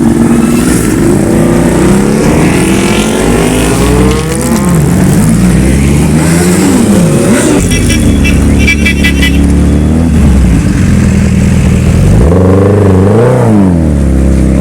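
Superbike engines revving again and again, their pitch rising and falling several times, with one sharp blip near the end. A rapid string of high beeps is heard about eight seconds in.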